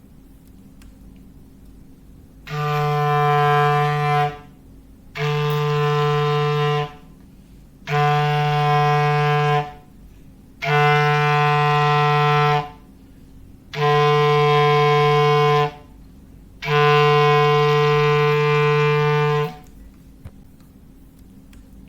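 Foghorn sound effect: six blasts of one steady low pitch, each about two seconds long and about three seconds apart, the last held a little longer.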